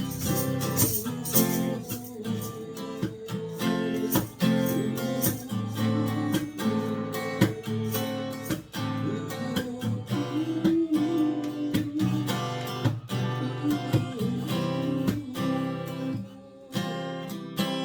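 Solo acoustic guitar playing a K-pop ballad, strummed chords with melody notes picked over them, the strumming thinning out near the end.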